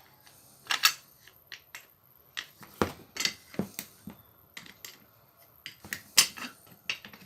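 Parts of a Makita 4.5-inch angle grinder being handled during disassembly: irregular sharp clicks and knocks of metal and plastic pieces against each other and the bench.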